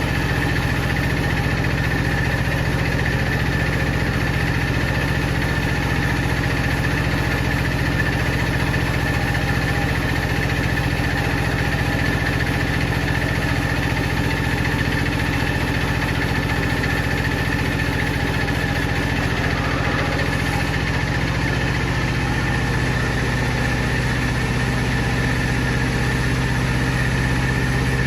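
A power saw's motor running at a steady speed: a constant low hum with a steady high whine above it.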